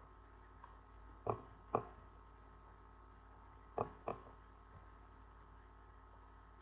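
Four sharp clicks or taps in two pairs, one pair about a second in and another near the middle, over a faint steady electrical hum.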